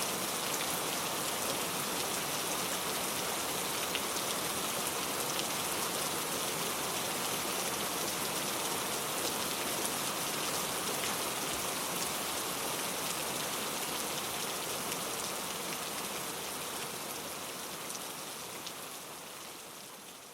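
Steady rain falling, a dense patter of drops, fading out over the last few seconds.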